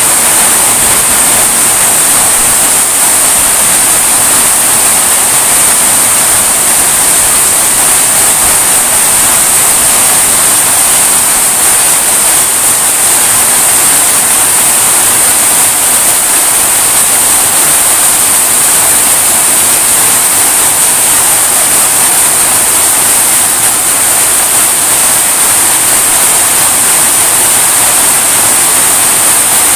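Heavy tropical rain pouring down on trees and a yard: a loud, steady hiss with no letup.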